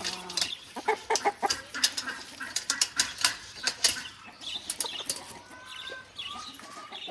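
Hens clucking and calling restlessly in their coop, with many short knocks and wing flaps among them.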